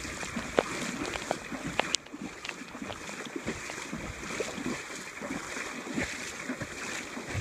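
Water sloshing and splashing around people wading waist-deep through a fast-flowing river, with many small irregular splashes over the rush of the current. The level drops suddenly about two seconds in.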